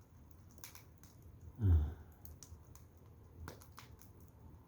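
Wood fire crackling, with scattered sharp pops from the burning logs. A brief, louder low sound comes about a second and a half in.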